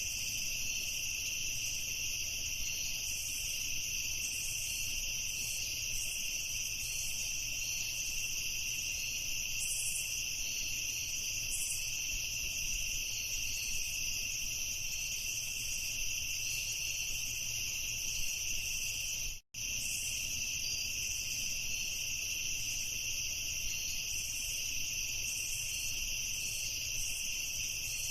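Crickets chirping in a dense, steady chorus. About two-thirds of the way in, the sound cuts out completely for a split second, then resumes.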